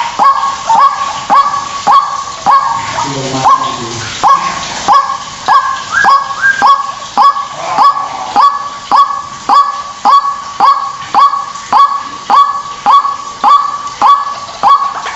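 White-breasted waterhen (ruak-ruak) calling: a fast, even series of loud nasal notes, each swept sharply upward and held, repeated about one and a half to two times a second, as used to lure the bird.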